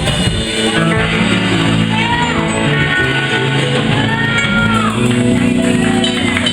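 Live band music with a singer and guitar, played in a large room.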